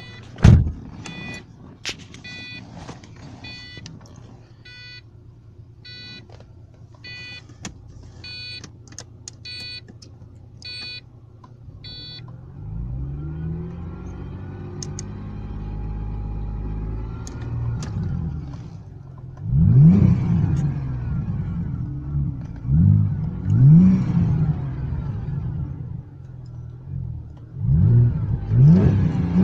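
Holden VZ Commodore's 3.6-litre V6, fitted with a pod air filter and a 2.25-inch cat-back exhaust, idling and then revved: a slow rise and fall of revs, then several short, sharp blips that are the loudest part. It is heard from inside the cabin. For the first twelve seconds an electronic chime beeps about once a second over the idle.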